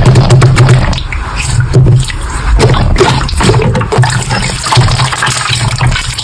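Slime being squished and worked by hand: a run of wet clicks, pops and squelches.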